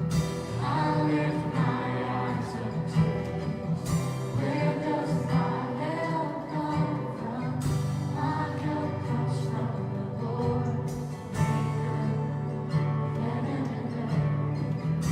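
Live worship music: singers repeating a song's bridge over a band with guitar and drums.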